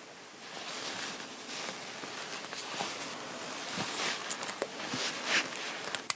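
Fabric rustling and rubbing as clothing is handled, with a scatter of small clicks and taps that grow more frequent in the second half.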